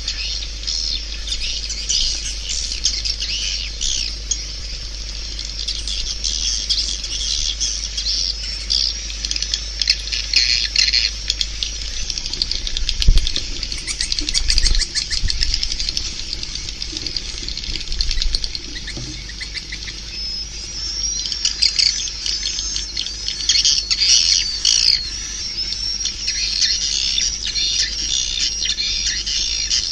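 Swiftlets twittering and chirping in a dense, fast chatter of high calls, thinning out midway and swelling again toward the end: a swiftlet call sound used to lure swiftlets to a swiftlet house. A steady low hum runs under it, with a few soft low thumps midway.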